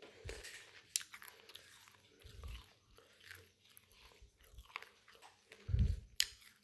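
Indian ringneck parrot biting and chewing, with scattered sharp crunching clicks and a few dull low thumps, the loudest thump near the end.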